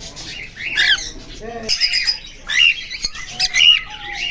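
Cockatiel squawking and chirping: a run of short calls that sweep up and down in pitch, loudest a little after the middle.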